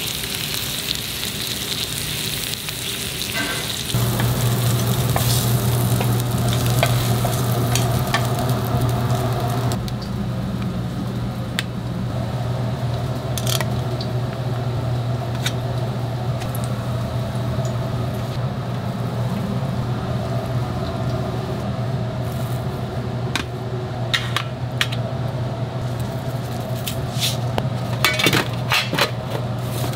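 Food sizzling in a hot pan as it is stirred, with frequent short clicks and clinks of metal utensils that come thicker near the end. A steady low hum starts about four seconds in.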